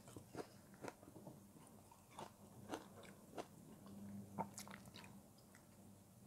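Faint crunchy chewing of frozen foam sponge: irregular crisp crunches and clicks, about two a second.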